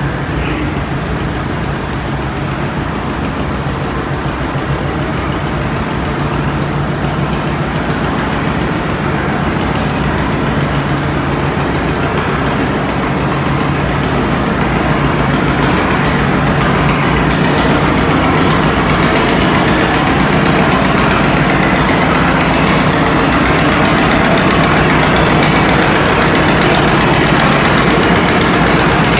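Antique pulling tractor's engine running steadily. It grows louder and harsher through the second half.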